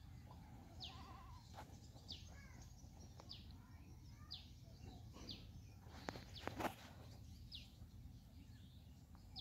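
Faint outdoor quiet with a bird's short, falling high call repeated roughly once a second, and a faint bleat about a second in.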